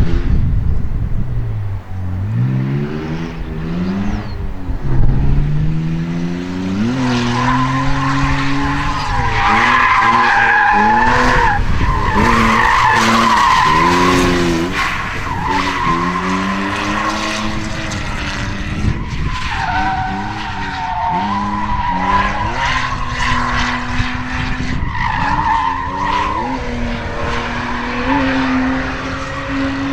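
Drift car engine revving up and down again and again as it slides, with the tyres squealing in a wavering high tone from about seven seconds in.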